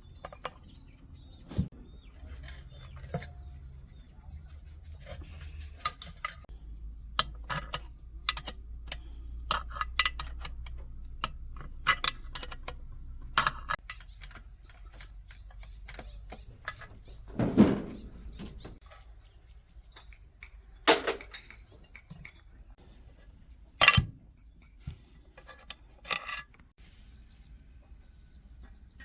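Scattered sharp clicks, taps and knocks of hand tools and small metal parts being handled, with a few louder knocks about two-thirds of the way through. A steady high cricket trill runs underneath.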